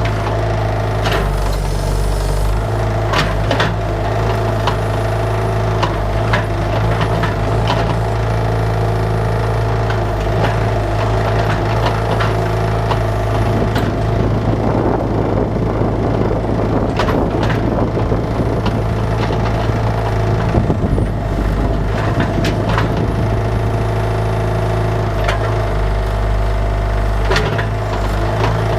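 Bobcat 331 mini excavator's diesel engine running steadily under load while digging, with scattered knocks and clanks from the bucket. About halfway through comes a stretch of crackling and snapping as bush branches and roots break.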